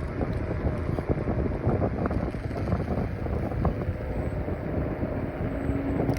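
Wind buffeting the microphone over road and tyre rumble from a Kaabo Wolf Warrior 11 Pro electric scooter under way; a faint steady tone joins about five seconds in.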